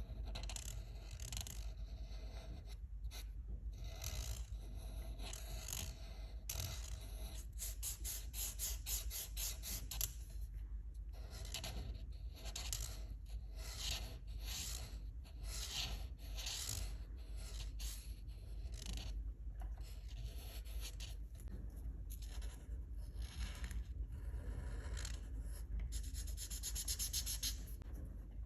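Colouring on paper: a dry scratching of strokes across the page, in runs of quick back-and-forth strokes, fastest about a third of the way in and again near the end, over a low steady hum.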